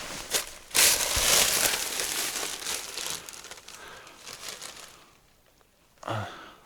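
Crumpling and rustling of attic junk being handled and dragged about, loudest in the first couple of seconds and then fading away.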